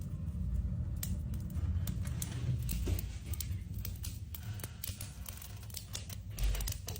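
Irregular short clicks and crackles over a steady low rumble.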